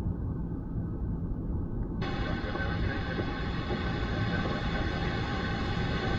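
Steady cockpit drone of a Cessna Citation CJ3+ in flight: its twin turbofan engines and the airflow make a constant noise, with a hum of unchanging tones over it.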